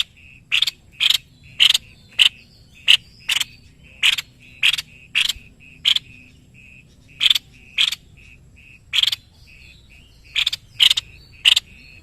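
White-necked babbler (tepus leher putih) calling: short, sharp notes repeated about twice a second, in runs broken by brief pauses.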